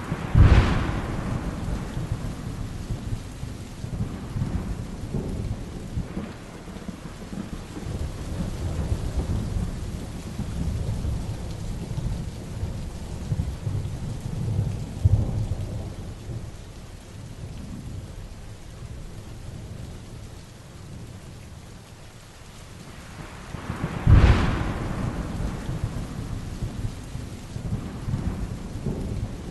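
Heavy rain falling steadily during a thunderstorm, with two loud thunderclaps, one just after the start and one near the end, each sharp crack trailing off into rumbling, and rolling thunder rumbling in between.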